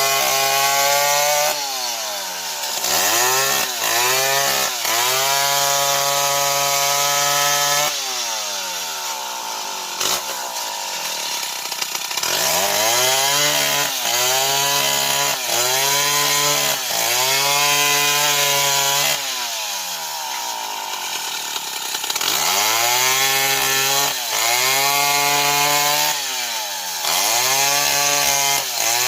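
Old Stihl 070 two-stroke chainsaw running at high revs while cutting into a tree. Its engine pitch sags sharply and climbs back again and again as the chain bogs down in the wood.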